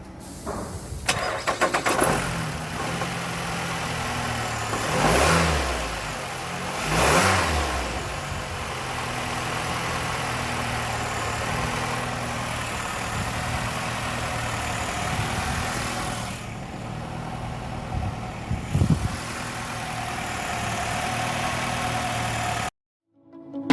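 2012 Nissan X-Trail engine cranking and starting about a second in, then idling, revved briefly twice, and settling back to a steady idle before cutting off suddenly near the end.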